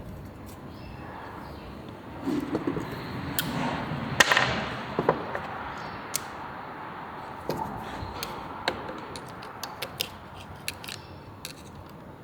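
Workshop handling noise from tools and engine parts: irregular clicks and knocks, with a louder clatter about four seconds in.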